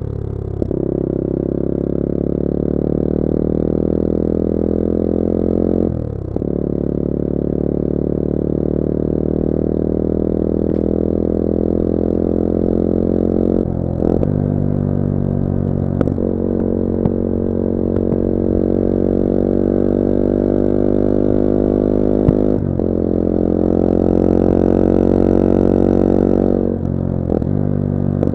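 Onboard sound of a Bullit Hero 250's CF Moto 250cc four-stroke engine running under way. The engine note holds steady or climbs slowly, with a handful of brief breaks where it dips and the pitch shifts.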